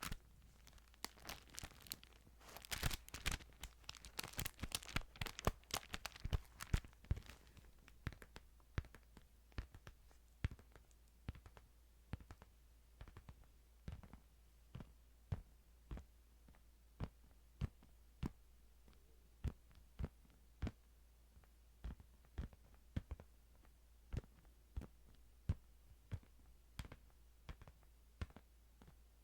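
Paper handling, typical of thin Bible pages being rustled: dense crinkling for the first several seconds, then sparse light clicks about once or twice a second.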